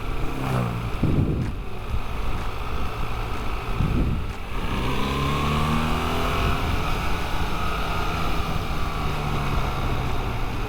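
Motorcycle engine accelerating through the gears, with breaks at gear changes about one and four seconds in, then its pitch climbing and settling as it pulls steadily.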